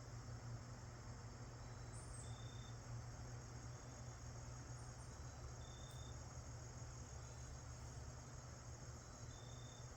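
Crickets chirring in a steady, high, continuous trill. A short high note repeats about every three and a half seconds, at about two, six and nine and a half seconds in, over a faint low steady hum.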